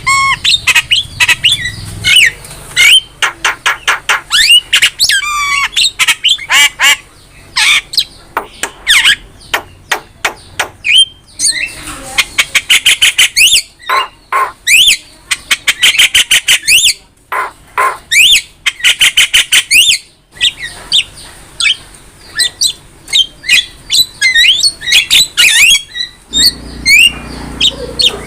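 Javan myna singing a loud, varied song: harsh squawks, rapid trains of clicking rattles and short rising whistled notes, broken by a few brief pauses.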